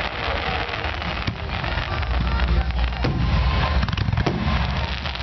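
Fireworks finale: many aerial shells bursting in quick succession over dense crackling, with heavy low booms building from about two seconds in and a few sharp reports standing out.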